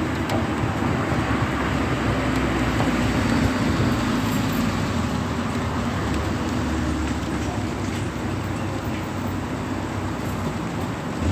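Steady road traffic noise in light rain: an even low rumble with a constant hiss over it.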